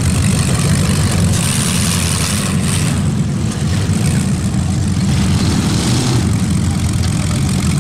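Demolition derby car's engine running loudly with a steady, deep rumble as the car pulls away.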